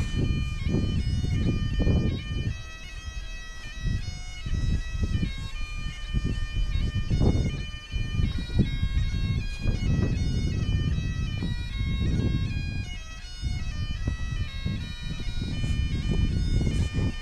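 Background bagpipe music: a stepping melody over steady held drone notes, with irregular low rumbles of wind buffeting the microphone underneath.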